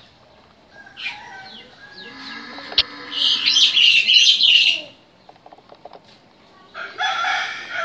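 Birds chirping in the open. A dense, loud spell of rapid high chirps starts about three seconds in and breaks off before five seconds, with another burst of calls near the end and a single sharp click a little before the loud spell.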